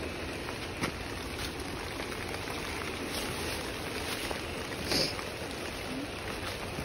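Steady rain falling on trailside leaves and brush, with scattered light taps and one louder tap about five seconds in.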